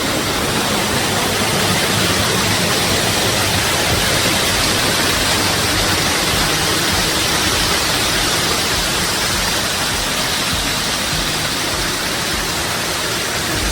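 Sita Falls waterfall, its water pouring down in a steady, loud rush.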